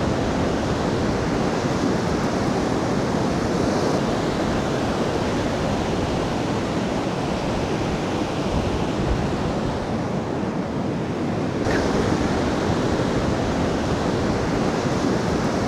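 Rough monsoon sea surf washing steadily onto the beach, an even rushing noise that eases briefly and swells again about twelve seconds in, with wind on the microphone.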